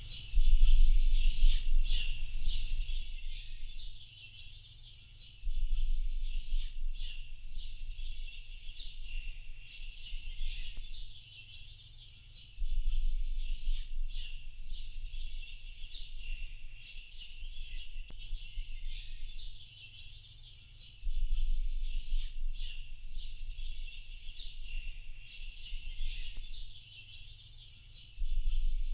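A dense chorus of many birds chirping and twittering without pause, high-pitched. A low rumble swells up and fades about every seven or eight seconds.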